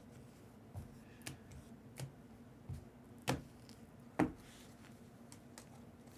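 Quiet room with about six light, sharp clicks and taps scattered through it: handling noise from someone working at a desk.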